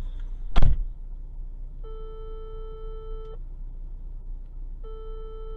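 A single sharp bang from a road vehicle, then two long, steady beeps, each about a second and a half and about three seconds apart.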